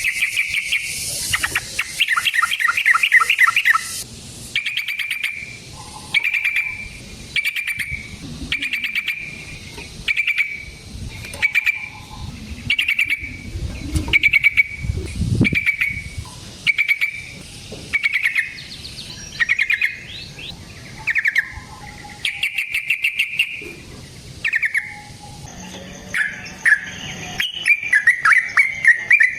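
Yellow-vented bulbul (trucukan) singing: a fast chattering burst at first, then a steady string of short, clear calls about once a second, turning back to rapid chatter near the end.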